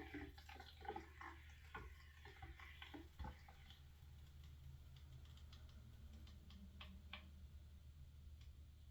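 Near silence: room tone with a steady low hum and scattered faint clicks and taps.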